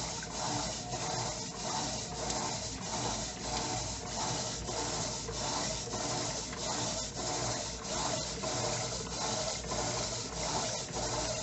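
Electrolux LTE09 9 kg top-loading washing machine agitating a load, its agitator swishing water and clothes back and forth in a regular rhythm of about two to three strokes a second.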